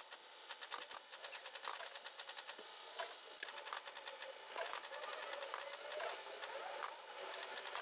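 Rapid, light mechanical clicking and ticking, fairly quiet, with no low rumble.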